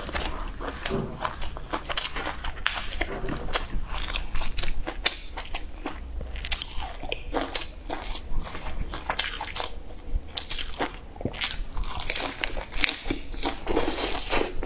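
Close-up mouth sounds of a person biting and chewing fried sausage wrapped in lettuce, with many quick, irregular crunches.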